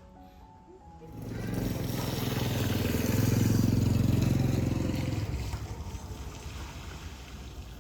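A motor vehicle engine passing close by: it comes in about a second in, grows louder to a peak around the middle, then fades away.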